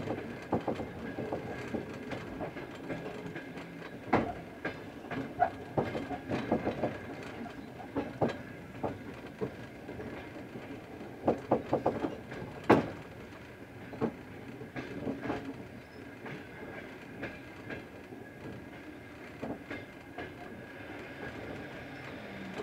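Passenger train running on the track: a steady rumble with irregular clacks and knocks from the carriage, the sharpest about two-thirds of the way through.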